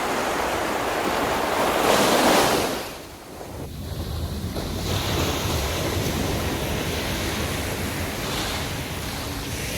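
Sea waves breaking on a sandy beach: a wave crashes and washes up loudest about two seconds in, falls away abruptly about a second later, then lower surf continues with wind buffeting the microphone.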